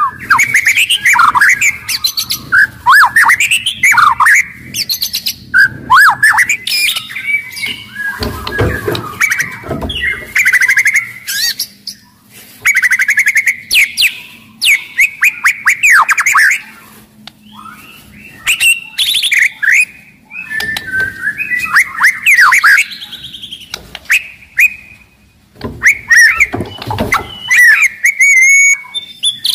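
White-rumped shama (murai batu) singing a loud, fast, varied song. Its short phrases of quick sweeping whistles are mixed with sharp clicking notes, with brief pauses between the bursts.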